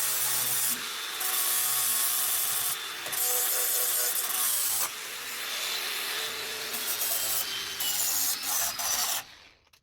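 Abrasive rasping on thin sheet steel, going in long passes a second or two each with short breaks between them. It cuts off abruptly near the end.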